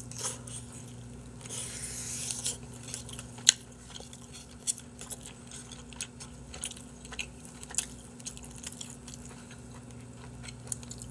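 Close-up biting and chewing of grilled chicken hearts pulled off a wooden skewer, with scattered short wet clicks and smacks.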